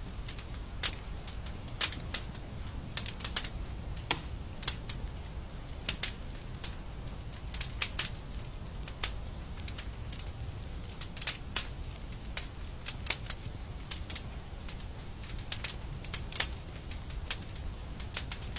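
Wood fire crackling, with irregular sharp pops and snaps, several a second at times, over a steady low rumble.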